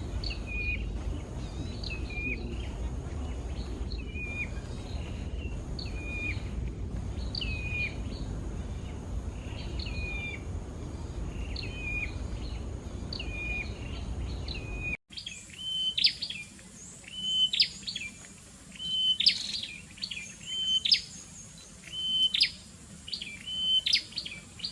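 Wild prinias repeating a short, sharp chirping call about once every second and a half, over a low rumble. About fifteen seconds in the sound cuts and the rumble stops, and the calls come louder and closer, sweeping higher.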